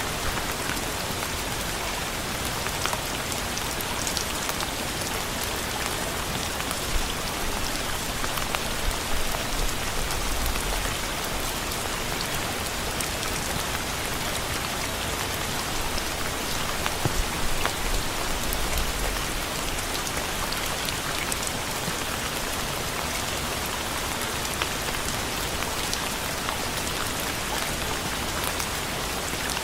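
Steady rain falling on a surface, a dense even hiss with individual drops ticking through it, and a couple of brief low rumbles about ten and eighteen seconds in.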